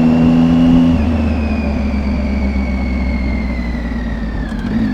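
Triumph Tiger motorcycle engine running while riding. About a second in the engine note drops lower as the throttle eases, then runs on steadily and slowly gets quieter before picking up near the end.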